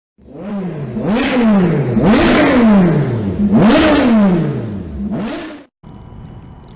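Motorcycle engine revved hard several times, each blip rising sharply in pitch then winding back down over about a second; the last rev is cut off abruptly.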